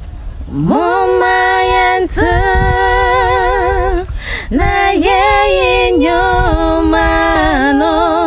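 Girls singing a cappella, holding long sustained notes with a slight waver. The voice slides up into the first note about half a second in, with short breaths about two and four seconds in.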